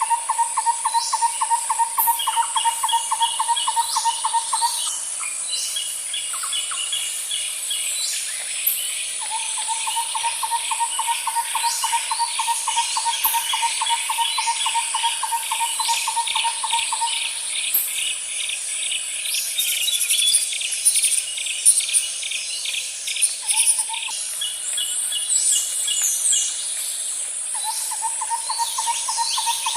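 Layered insect-and-bird nature ambience: a steady high-pitched insect drone, rapid cricket-like chirping, and a lower rapid trill that comes in runs of several seconds and stops between them.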